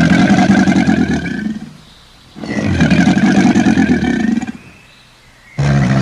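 A big cat roaring twice, each roar about two seconds long. A different sound cuts in abruptly near the end.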